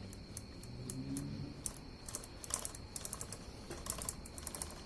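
Saw chain on a Stihl MS193T top-handle chainsaw moving around the bar, giving quick, irregular clicks and crunches as it feels like it is hitting something. The owner suspects a worn rim sprocket.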